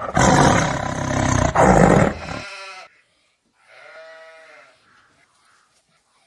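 Two animal calls: a loud, harsh call lasting about two and a half seconds that ends in a brief pitched tail, then, after a short gap, a shorter and quieter pitched call.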